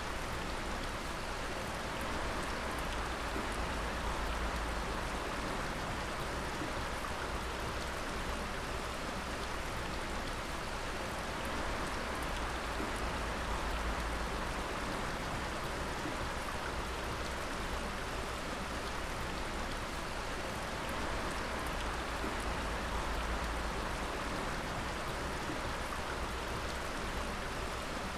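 Water dripping steadily in many close drops, a continuous patter like rain on a surface, with a low rumble underneath that swells and fades.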